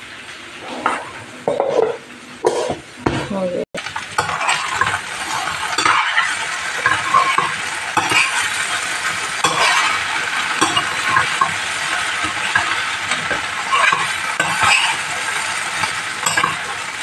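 Chopped okra frying in a stainless steel pan: a steady sizzle with a spatula stirring and scraping against the metal. It comes after a few short knocks and handling sounds in the first few seconds.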